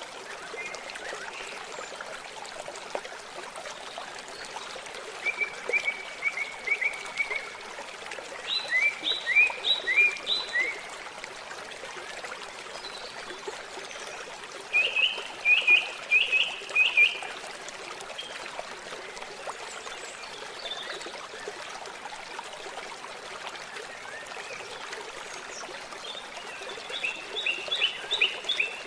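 Steady trickle of running water, over which a small bird sings four short phrases of quick repeated notes, each phrase lasting about two seconds, the last near the end.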